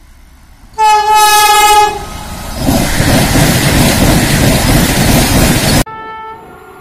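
Vande Bharat Express trainset sounding a loud horn chord for about a second, then rushing past at speed with a loud, even noise of wheels and air. The noise cuts off suddenly near the end, and a fainter horn note and low rumble from another train follow.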